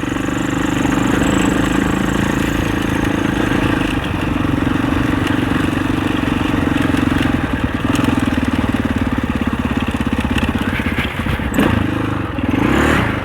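Husaberg 650 single-cylinder four-stroke dirt bike engine running at a steady, moderate throttle while riding. In the last couple of seconds the engine note dips and changes pitch as the throttle is eased and opened again.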